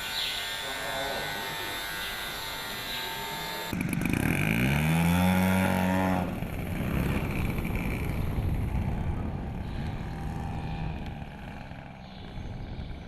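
Model aircraft engines running: a steady high whine, then after an abrupt change an engine note rising in pitch for about two seconds, settling into a duller, fading running noise.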